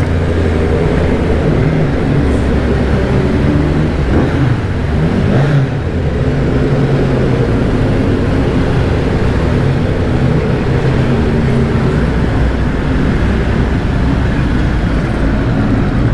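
Triumph Street Triple R's inline three-cylinder engine running under way, its note stepping up and down a few times, with wind rushing over the microphone.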